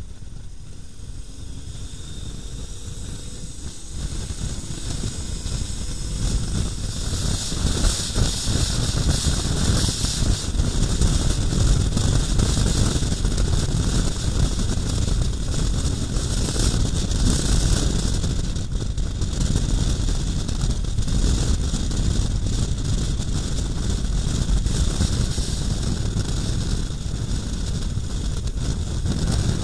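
Wind rushing over the microphone of a KTM 1090 Adventure R motorcycle on the move, with a low rumble of engine and road underneath. It grows louder over the first several seconds, then holds steady.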